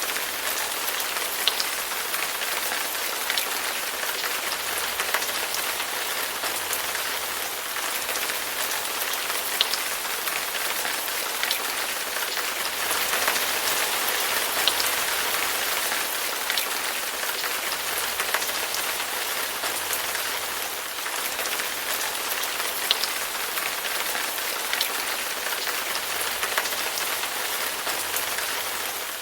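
Steady hiss of falling or spraying water, with scattered small ticks of drops striking a surface.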